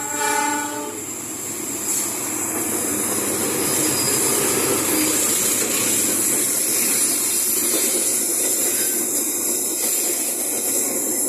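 Train horn sounding and cutting off about a second in, followed by the steady noise of the train running along the rails.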